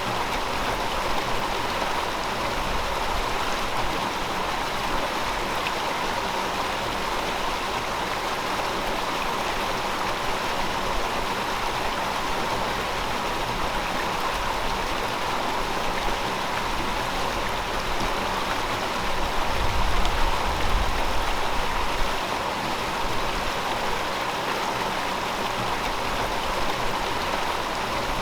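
River water flowing, a steady continuous rush. A brief low rumble swells up about two-thirds of the way through.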